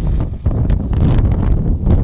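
Strong wind buffeting the microphone: a loud, gusty low rumble that swells and dips unevenly.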